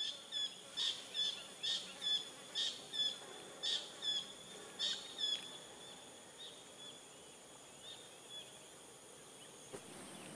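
A bird calling a series of short, high chirps, about two a second. After about five seconds they thin out to a few fainter ones about a second apart.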